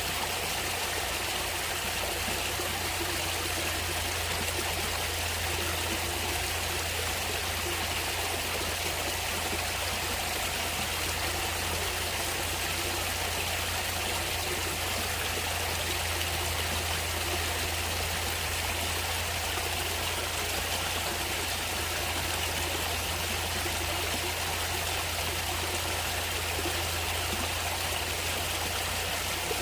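Natural stream of water running steadily, an even rushing and trickling with a low rumble underneath that does not change.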